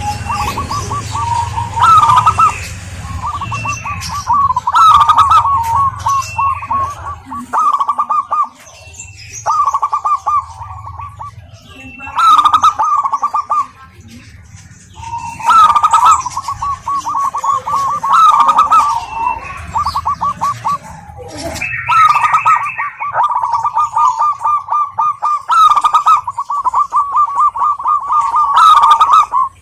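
Zebra dove (perkutut) calling loudly: repeated phrases of rapid rolling, cooing notes, each a second to several seconds long, with short pauses between them.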